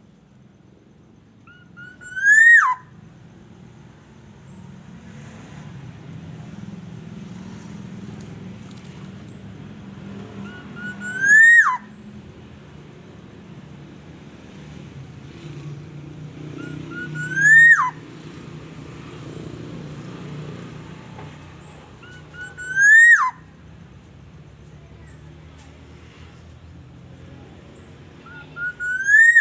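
Black-naped oriole giving a loud, fluty whistled call five times, each a short slur that rises and then drops sharply, with pauses of several seconds between calls. A faint low rumble runs underneath.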